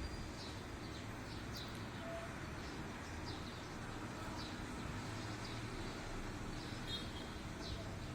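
Small birds chirping in short, falling notes about once a second over a steady rushing background noise.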